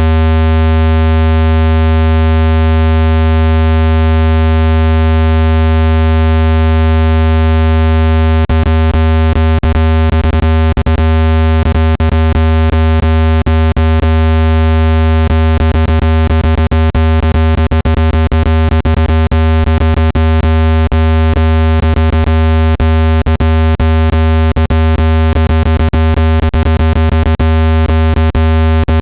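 Loud, steady, low-pitched synthetic tone with many even overtones, played as a speaker water-ejection sound meant to vibrate trapped water out of a phone speaker. Short clicks cut through it irregularly, more often after the first several seconds.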